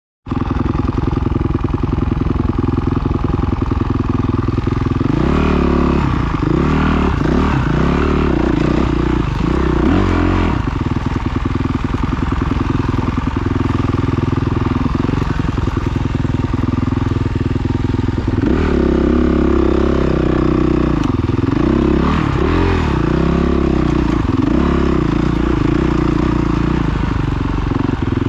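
Motocross bike engine running loud and close, its pitch swinging up and down in two spells of rapid revving between steadier stretches.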